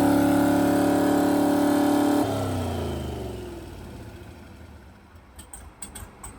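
An engine held at steady high revs, then let off about two seconds in, the revs falling away and fading. A few faint clicks follow near the end.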